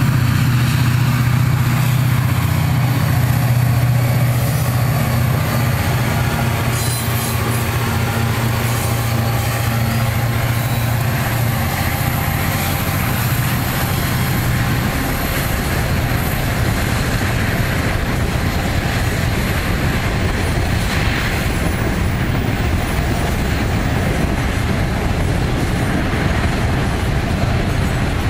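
Diesel-electric freight locomotives passing under power, the steady low drone of their engines strongest for the first dozen seconds. After that the continuous rumble of loaded freight wagons rolling by on the rails takes over.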